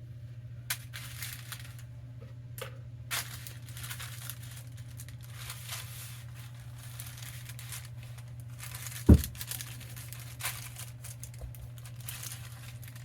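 Wax paper crinkling and rustling in short bursts as it is handled and pressed into place, with one sharp thump a little after halfway, the loudest sound.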